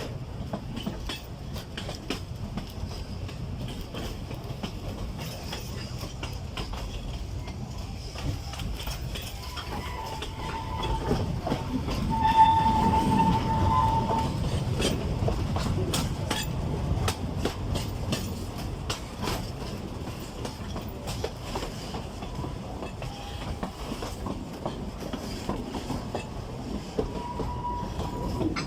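Narrow-gauge forest railway train hauled by an Mk48 diesel locomotive, running along the track with a steady rumble and wheels clicking over the rail joints. The rumble swells about halfway through. A held high note sounds over it for a few seconds there, and again near the end.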